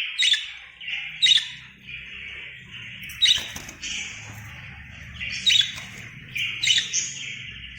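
Pet lovebirds' chattering and sharp chirps, about one loud chirp a second over a steady busy twitter: lovebird calls played from a phone, with the caged birds calling back in response.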